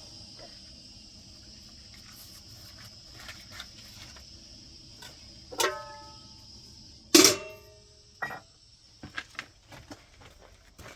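A steady high hiss, then two loud strikes that ring on with a clear pitch, about a second and a half apart, followed by a few lighter knocks.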